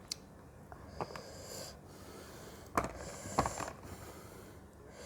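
Close-up eating sounds of a person chewing fruit: a few short wet mouth clicks, the loudest two close together about three seconds in, with a couple of brief breaths through the nose.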